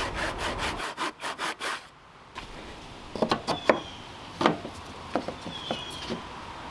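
A hand saw cutting through a wooden 2x4 in quick, even strokes, stopping about two seconds in as the cut finishes. A few sharp wooden knocks and taps follow.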